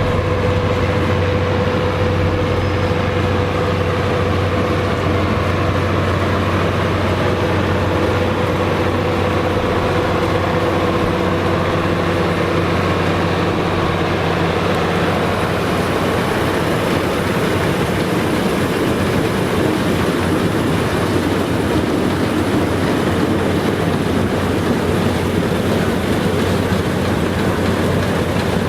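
Farm machinery running steadily: an engine's even drone with a steady hum, turning noisier and more rattly about halfway through.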